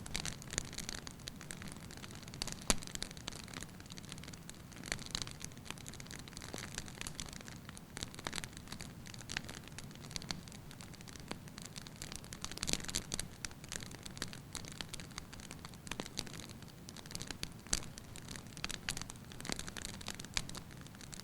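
Wood fire burning in a fireplace, with a low steady rumble of flames and frequent sharp, irregular crackles and pops from the logs.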